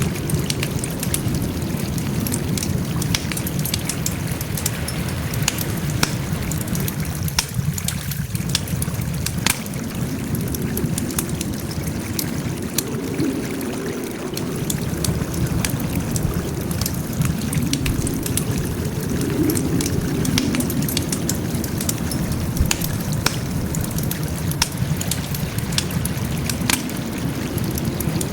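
Wood fire crackling, with frequent sharp pops and snaps over a steady low rushing sound.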